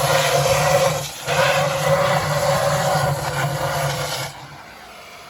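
A machine running loudly and steadily with a low hum under a rushing noise, dipping for a moment about a second in and then cutting off abruptly near the end.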